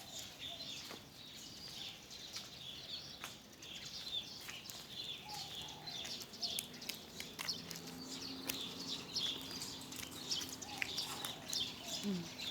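A flock of small birds chirping, many short high calls overlapping one after another. A faint low steady hum comes in about halfway through.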